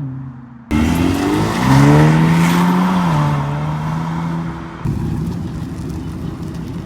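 Car engines accelerating hard as cars pull out. The sound cuts suddenly about a second in to a loud car whose revs climb, then hold steady. It changes abruptly again near five seconds to another engine running steadily.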